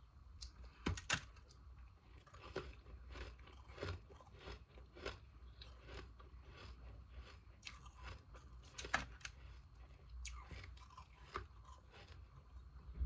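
Frozen ice pieces being bitten and chewed close to the microphone: a run of irregular crisp crunches, with the sharpest about a second in and near nine seconds.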